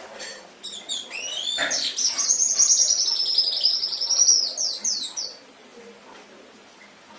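Domestic canary singing one phrase of about five seconds: a few rising chirps that run into a fast, loud rolling trill, which stops abruptly about five and a half seconds in.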